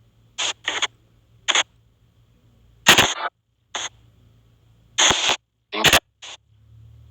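SP White Noise box spirit-box app sweeping: short, irregular bursts of hissy static and clipped radio-like fragments, with near-silent gaps between them. The loudest burst comes about three seconds in.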